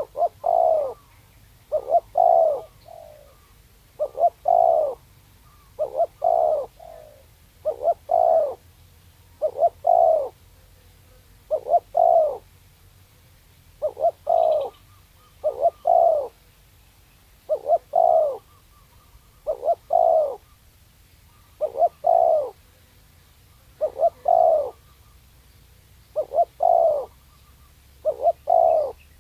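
Spotted dove cooing over and over, a short phrase of two or three low coos about every two seconds.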